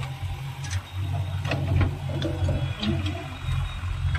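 Tractor diesel engine running steadily with a low, rhythmic throb, with a few sharp metallic clicks and clatters over it.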